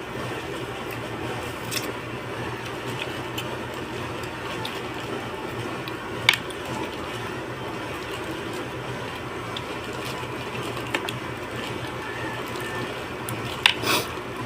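Eating sounds at a meal: a few sharp clicks of utensils against dishware, one about six seconds in and a cluster near the end, over a steady background hum.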